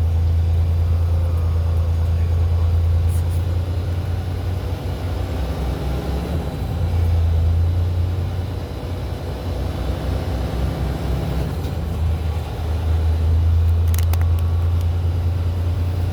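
Semi-truck's engine running while the truck moves slowly, a strong low drone that fades and comes back twice, with a couple of faint clicks. Noises from the cab's air suspension (airbags), just let down, may be mixed in.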